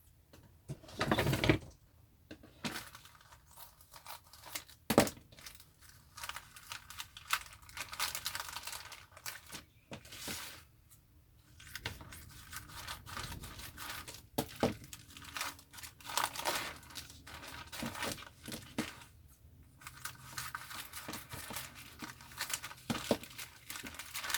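A parcel being opened by hand: its packaging tearing and crinkling in irregular rustles, with a few sharp knocks, the loudest about a second and five seconds in.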